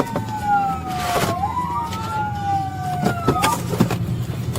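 Police sirens wailing, two slow rising-and-falling tones crossing each other, over the steady drone of the patrol car's engine and road noise. The wail stops about three and a half seconds in.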